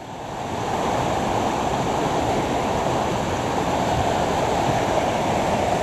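Steady rush of a waterfall, an even wash of falling water that swells up in the first second and then holds level.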